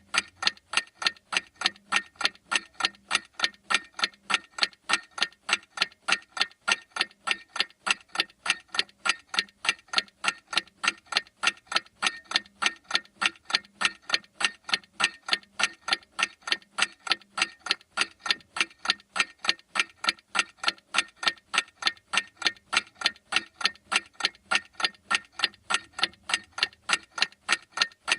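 Clock ticking steadily, with sharp, even ticks at about three a second.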